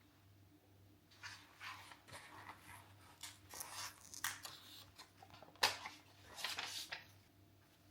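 Small handling sounds: a string of short rustles and light clicks, with one sharper click a little past the middle, over a faint steady hum.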